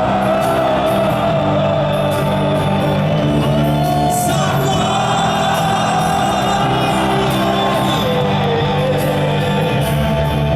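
Live rock band playing an instrumental passage between sung verses, with sustained melodic lines over a steady accompaniment. Voices sing and shout over the music.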